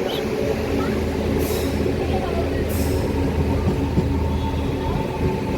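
Passenger train hauled by a WAP7 electric locomotive running on the rails, a steady rumble with a constant hum through it. Two short hisses come about one and a half and three seconds in.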